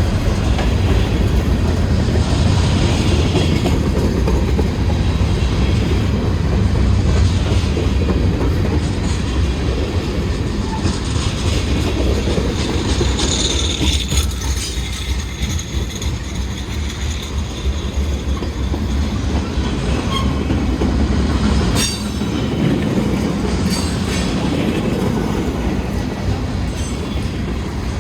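Norfolk Southern freight train's cars rolling past, a steady heavy rumble with the clickety-clack of wheels over the rails. A high wheel squeal rises briefly about halfway through, and a few sharp clanks come near the end.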